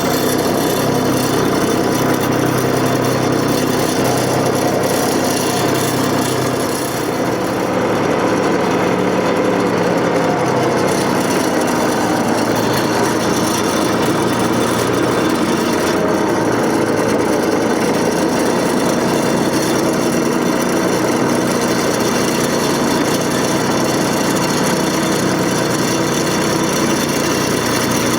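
Tractor engine running steadily while the tractor works material with its box blade.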